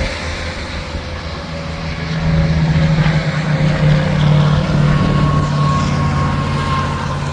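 Semi truck passing on the interstate: its diesel engine drone comes up about a second and a half in, is loudest for a few seconds, then eases off, over steady highway traffic noise.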